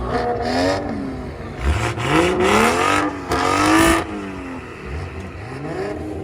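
Car engines revving over and over, the pitch climbing and dropping with each rev. The loudest rev is about three to four seconds in and cuts off sharply, and the engine settles to a steadier note near the end.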